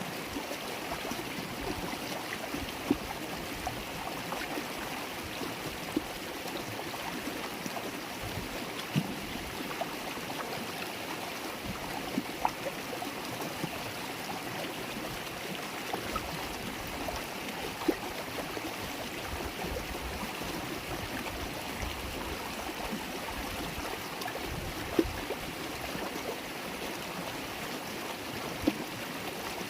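River water babbling and rushing steadily over stones, with a few brief sharper splashes standing out here and there.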